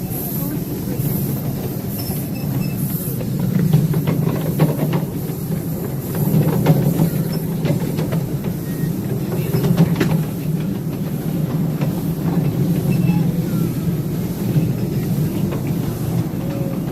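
Live-steam train rolling along the track, heard from the riding cars: a steady rumble with scattered clicks of the wheels over the rails.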